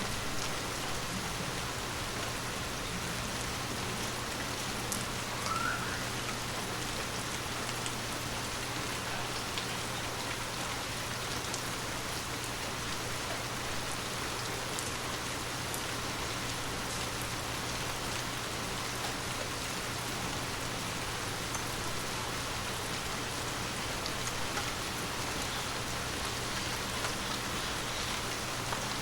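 Heavy rain falling steadily, with individual drops ticking through the constant patter and a steady low hum underneath.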